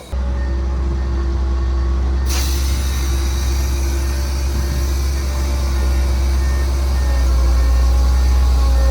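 Heavy diesel earthmoving machinery running with a steady low rumble and a faint whine above it, coming in abruptly at the start.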